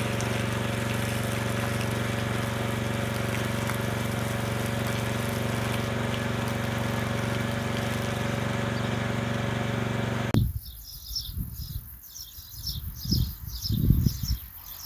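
A steady motor hum with a constant low drone, which cuts off abruptly about ten seconds in. After it come irregular dull thuds and a run of short, high repeated chirps.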